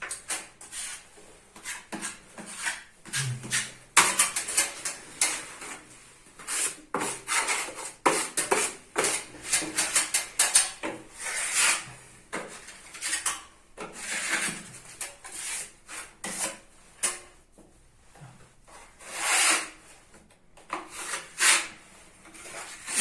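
Steel putty knives spreading and scraping filler across a primed wall: a long run of irregular rasping strokes, each under a second, with short pauses between them.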